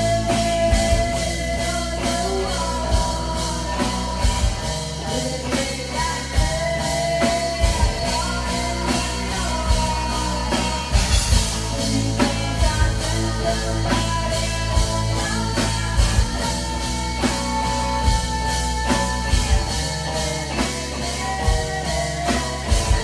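Live rock band playing: drum kit keeping a steady beat under bass and electric guitar, with long held melodic notes and a cymbal crash about halfway through.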